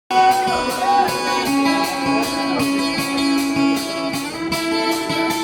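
Guitar strummed in a steady rhythm, a bit under three strokes a second over held chords: the instrumental intro of a live acoustic song.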